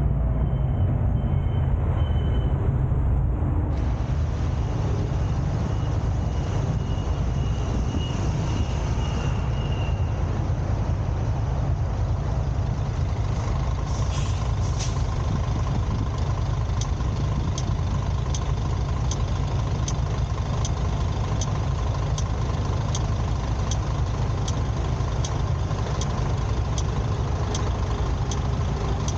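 Car driving in traffic: a steady low rumble of engine and road noise. About halfway through, regular sharp ticks begin, about three every two seconds.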